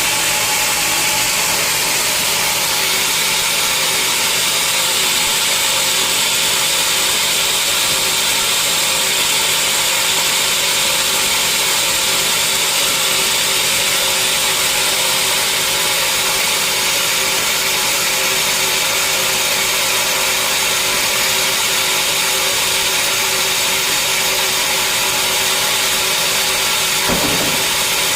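Sawmill saw running steadily through a large log, a constant high-pitched machine noise that does not change. A brief knock comes about a second before the end.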